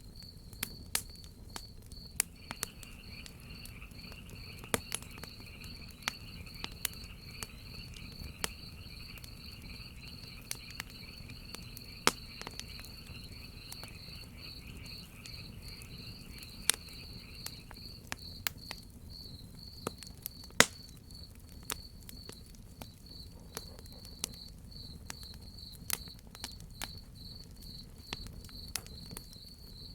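Crickets chirping in a steady high, pulsing trill, joined by a second, lower-pitched insect chorus from about two seconds in until about eighteen seconds. A wood fire crackles and pops at irregular intervals over a low steady rumble.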